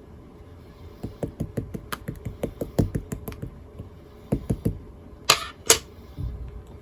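Scoop-ice-cream-textured slime being pressed and poked by hand: a quick run of small clicking pops, then a few low squishes and two louder crackling squelches about five seconds in.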